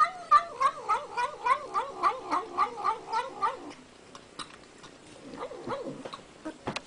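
Domestic cat yowling in a fast run of short calls that waver up and down in pitch, about three or four a second, for some three and a half seconds. A few fainter calls follow near the end.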